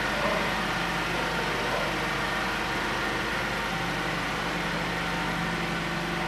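A steady machine hum with a few held tones under an even noise, unchanging throughout.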